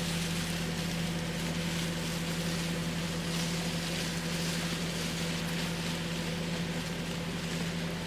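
An engine running steadily at a constant speed, its even hum unbroken, with a steady hiss of wind or rushing air over it.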